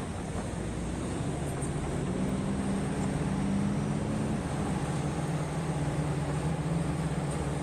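Heavy earthmoving machine's diesel engine running steadily. Its note rises about two seconds in and drops back a couple of seconds later.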